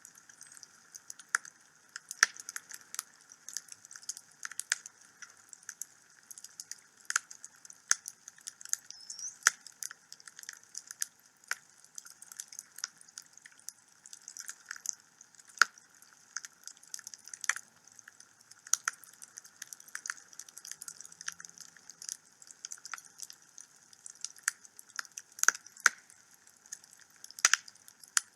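Wood fire in a fireplace crackling, with irregular sharp pops, a few of them louder, over a faint steady hiss.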